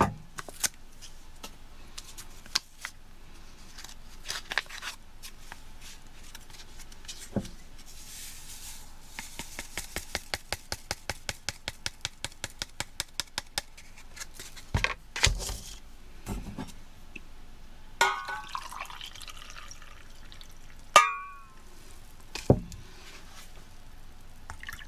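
Powdered cider and iced tea drink mixes being prepared: packets and containers handled with scattered clicks and knocks, a steady run of rapid clicks in the middle, and warm water poured in later on.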